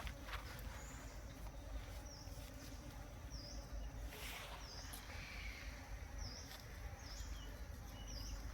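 A small bird calling repeatedly, short high chirps about once a second, over a steady low background noise, with a brief rustle about four seconds in.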